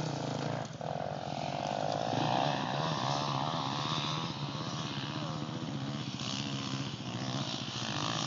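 Dirt bike engine revving hard and unevenly as it climbs a steep hill, the pitch rising and falling as the throttle is worked.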